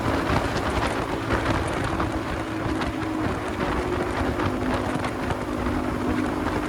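Motorcycle engine running at a steady speed while riding, its note shifting slightly about three seconds in, with wind buffeting the microphone.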